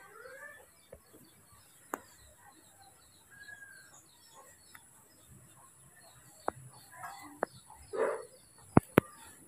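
Birds calling in the background, with a faint high chirping repeated a few times a second and a few short whistled calls. Several sharp clicks or taps come near the end, the loudest two in quick succession.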